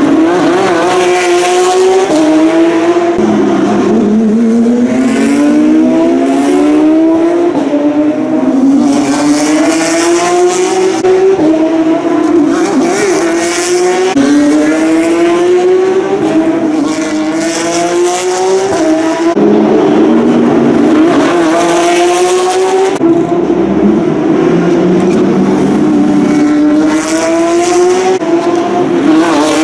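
Porsche 911 GT3 Cup race cars' flat-six engines accelerating hard, one car after another, their pitch climbing through the gears and dropping back at each upshift.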